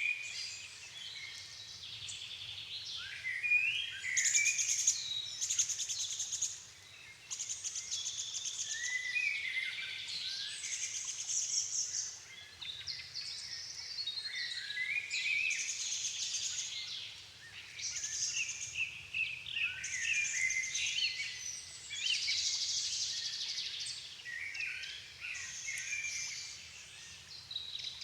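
Dusk chorus of several songbirds singing at once in a floodplain forest. Their phrases overlap continuously, with short rapid notes and trills, and one bird after another takes the lead.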